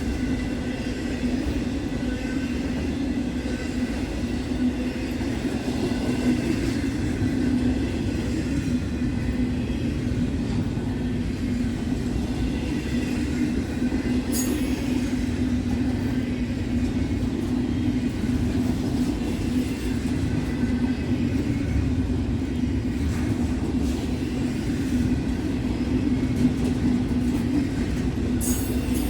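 Intermodal freight train rolling past: a steady rumble of cars on the rails, with a brief high squeak about halfway and again near the end.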